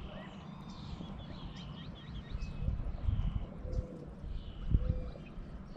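Small birds chirping and calling in quick, short notes, with a few low thumps and rustles of close handling noise a few seconds in.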